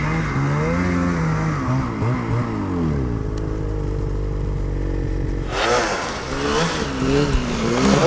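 Snowmobile engines running, their pitch rising and falling with the throttle; about five and a half seconds in, a louder, hissier engine revs up and down.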